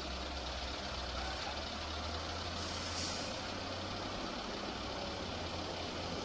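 A heavy engine running steadily, with a brief hiss about three seconds in.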